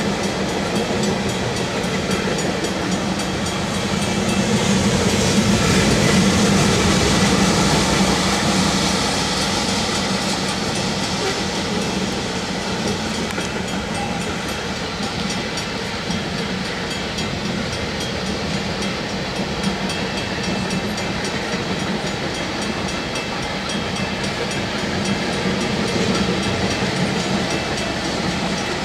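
Freight train tank cars rolling past a grade crossing: a steady rumble of wheels on rail, somewhat louder for a few seconds starting about four seconds in.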